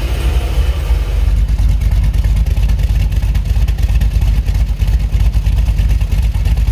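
Cammed 6.0-litre LS V8 on Edelbrock Pro-Flo 4 fuel injection running steadily, with the intake audibly sucking air. It gets louder over about the first second, then holds.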